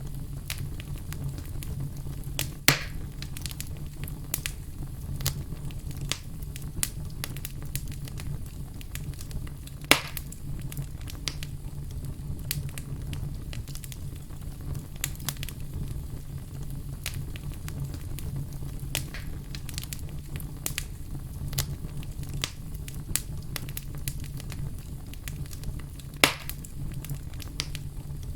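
Wood fire crackling steadily over a low rumble of flames, with dense small crackles. Three louder pops come about 2.5 seconds, 10 seconds and 26 seconds in.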